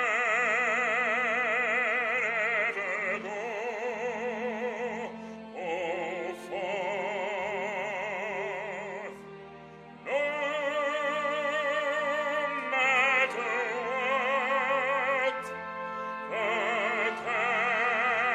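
Operatic singing in a high voice: long held notes of a few seconds each, with wide vibrato and short breaks between phrases, over a steady accompaniment.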